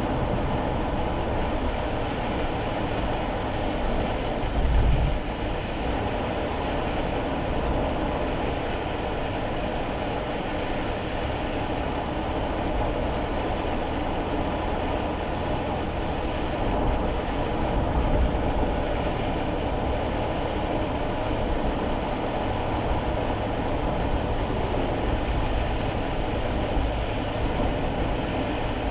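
Steady road and tyre noise heard inside a kei car's cabin while driving on a wet road, a continuous low rumble with a fainter hiss above it. There are a couple of brief low thumps, about five seconds in and again around seventeen to eighteen seconds.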